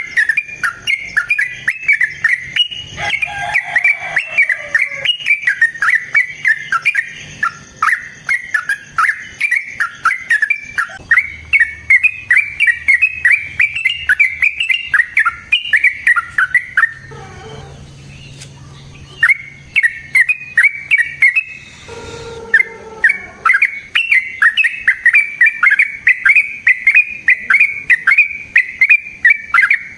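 Yellow-vented bulbul (trucukan) singing a long, fast chattering run of sharp notes, several a second, with a brief pause a little past halfway. It is the bird's long rolling song used as a lure to provoke other bulbuls into answering.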